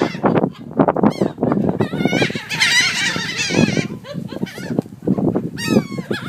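A flock of seagulls being fed, calling loudly over one another in many overlapping wavering squawks, thickest in the middle and again near the end.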